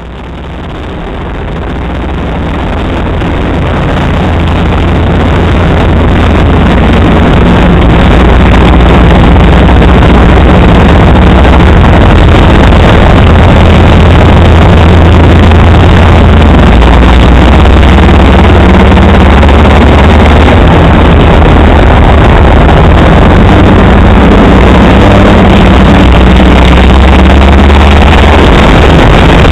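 Model A Ford Speedster's four-cylinder engine running hard under racing load, heard from the open cockpit: loud and rough, fading in over the first several seconds, its pitch rising and falling through the laps.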